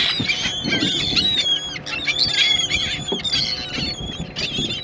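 A flock of birds calling together: many overlapping high, squealing chirps and whistles, without pause.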